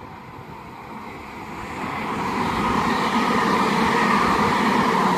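Southern Class 377 electric multiple unit coming through on the main line, its wheels and traction noise growing louder from about a second in, then running loud and steady.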